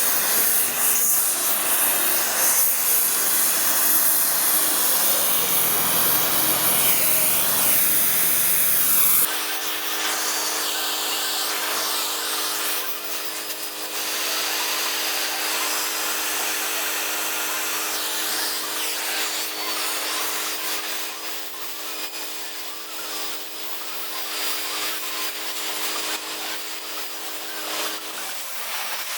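A power tool cutting metal with a loud, steady hissing grind for about nine seconds. It then changes abruptly to a small machine motor running steadily with a humming tone.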